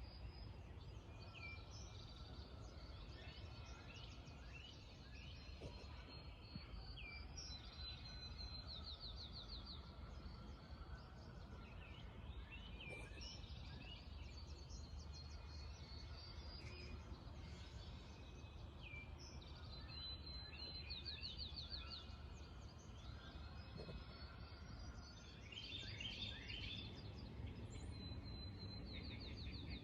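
Several birds singing and calling: short whistled notes and rising slurs, with a rapid trill that comes back three times, about every ten seconds. A steady low hum runs underneath.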